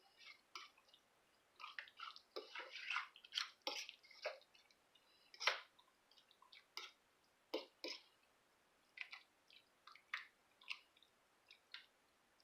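Faint wet squishing and light clicks of a utensil stirring a thick cream-of-chicken and milk sauce around chicken to coat it. The sounds come close together for the first few seconds, then thin out to scattered taps.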